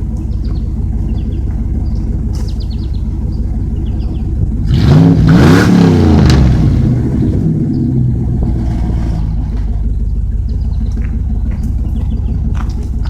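Truck engine idling through a dual exhaust with catalytic converters and no mufflers, blipped up once about five seconds in: the pitch rises, then falls back to a steady idle.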